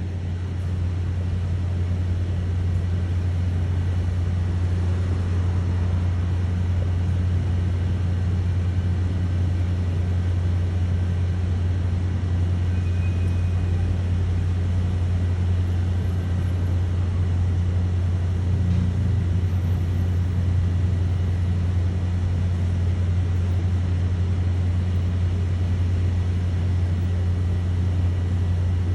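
A steady low-pitched hum with no breaks or changes in level.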